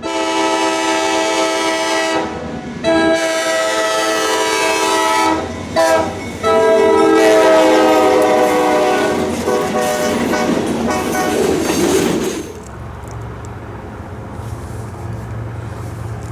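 Locomotive multi-chime air horn blowing the grade-crossing signal: two long blasts, one short, then a long one whose pitch drops as the train goes by. The horn then gives way to the steady rumble of the passing train.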